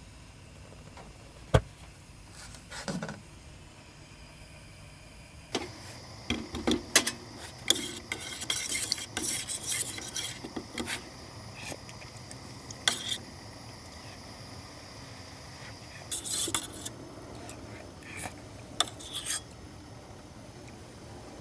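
Metal cookware and utensils clinking and scraping in scattered strokes, busiest in the middle, with a few sharp clicks.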